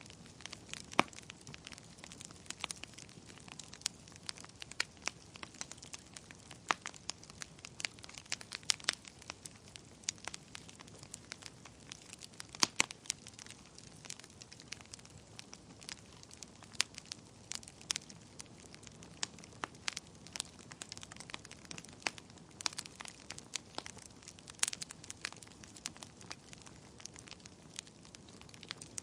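Wood fire burning in a fireplace, crackling and popping at irregular intervals over a soft low hiss of flames, with a few louder pops.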